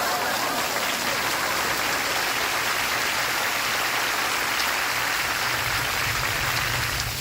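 Studio audience applause over steady rainfall, cutting off sharply near the end; a low hum comes in under it late on.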